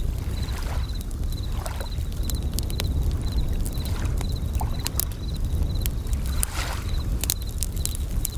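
Campfire crackling with scattered sharp pops, and bell crickets (suzumushi) chirping in short high trills about once a second, over a steady low wash of waves.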